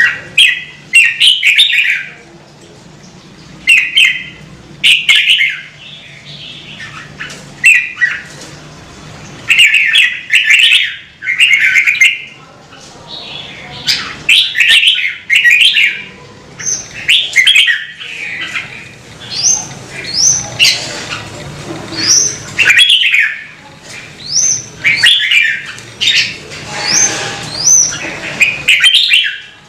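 Red-whiskered bulbul singing: short, rapid warbled phrases repeated every second or two. From about halfway through, quick sharp upward-sliding whistled notes join in.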